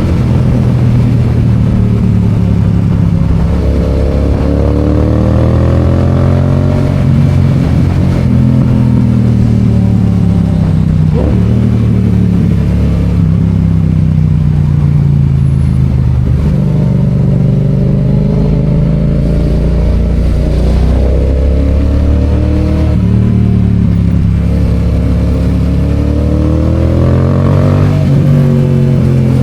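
Yamaha FZ-07's 689 cc parallel-twin engine under way, climbing in pitch as it accelerates and dropping back at each upshift, several times over.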